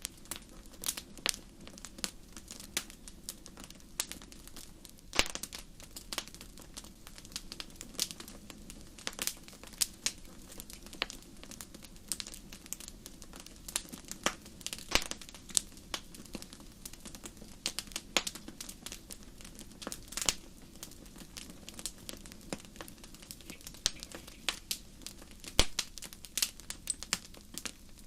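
Wood fire crackling: irregular sharp pops and snaps, a few of them much louder, over a faint steady low background.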